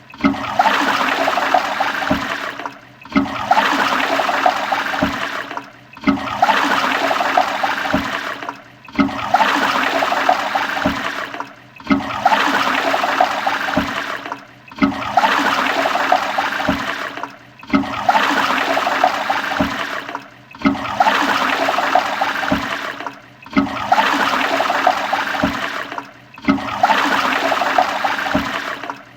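Toilet flushing: rushing, gurgling water. The same short stretch of flush repeats about every three seconds, each time cut off abruptly and starting again.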